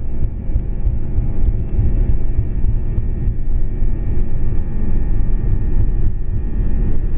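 Airbus A340-300's four CFM56 jet engines running at high power, heard from inside the cabin: a loud, steady low rumble with a steady engine whine over it and faint scattered clicks.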